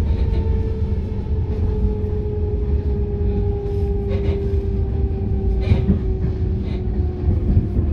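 Electric passenger train running with a steady low rumble, its motor whine slowly falling in pitch. A few short clicks come through about four and six seconds in.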